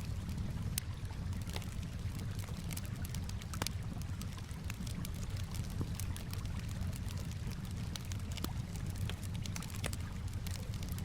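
Campfire crackling, with frequent sharp irregular pops and snaps, over a steady low wash of calm water.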